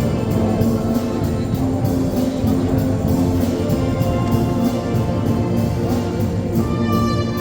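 A Oaxacan banda filarmónica, a brass and wind band, playing. Sustained notes and chords sound over a steady low bass, and a brighter high line comes in near the end.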